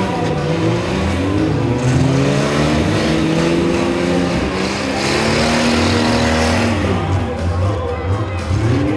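Several demolition derby car engines revving at once, each rising and falling in pitch over the others in a continuous din.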